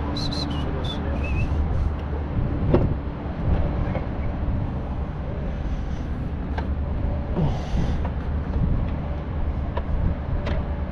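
A vehicle engine running steadily with a low rumble, with a sharp knock a little under three seconds in and a few short high chirps near the start.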